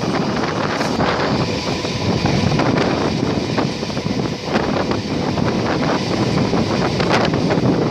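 Wind buffeting the microphone from an open door of a moving passenger train, over the steady running noise of the coaches on the track, with a few faint clicks scattered through.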